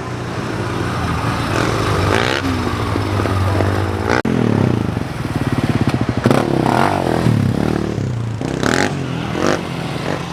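Motorcycle engine revving, its pitch rising and falling several times, with a few sharp clattery knocks near the end.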